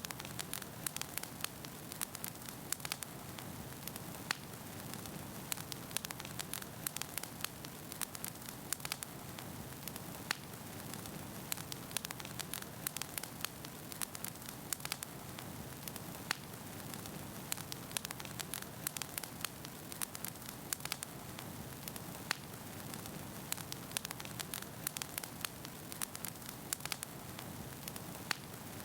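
Wood fire burning in a fireplace, with a steady hiss under many sharp, irregular crackles and pops of burning firewood.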